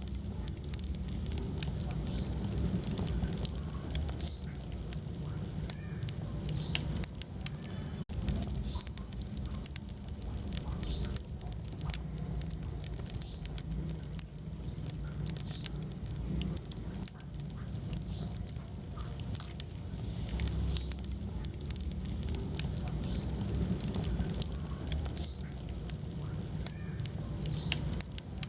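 Wood fire in a fireplace burning steadily, with frequent small crackles and pops over a low rumble of the flames.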